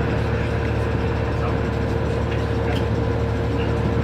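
Train running along the track, heard from inside: a steady low rumble with a constant hum and a few faint ticks.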